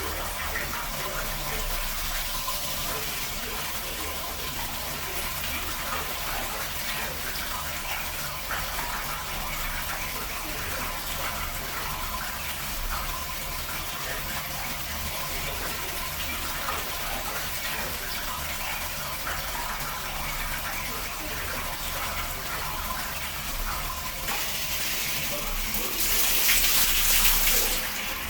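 Water running steadily from a tap for a bird's bath, with a louder rush of water for a couple of seconds near the end.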